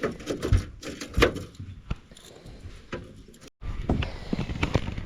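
Irregular knocks and clatter in a small fishing boat as a landed carp and its lure are handled, with a brief dead gap a little past halfway.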